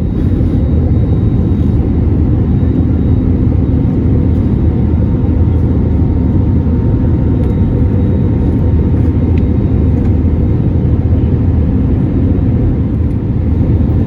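Airliner cabin noise: a steady, loud low rumble of the jet engines and rushing air, heard from inside the passenger cabin.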